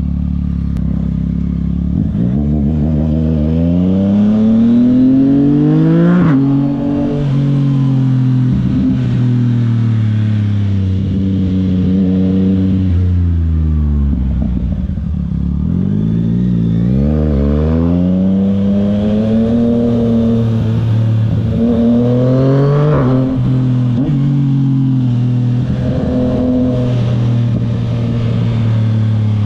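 Yamaha MT naked motorcycle engine under way, revving up through the gears with two sharp gear changes where the pitch breaks off and picks up again. In the middle it drops away as the bike slows, then pulls up again.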